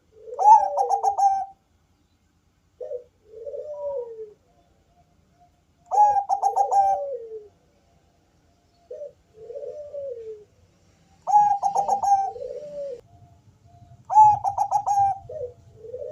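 Bangkok-type perkutut (zebra dove) cooing in repeated phrases every two to three seconds. Each loud phrase is a quick stuttering run of notes followed by a lower, falling coo, and shorter softer coos come in between.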